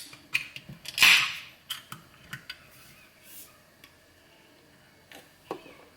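Groceries being handled and put away: several sharp clicks and knocks, with a short loud rustle about a second in, then only a few faint clicks.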